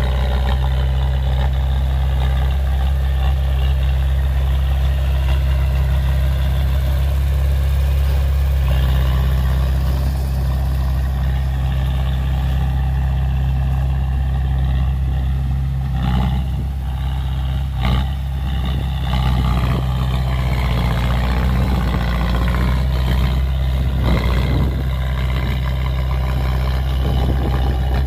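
Heavy diesel engines of dump trucks and a bulldozer running steadily with a deep, constant hum, with a few sharp knocks about two-thirds of the way through and again near the end.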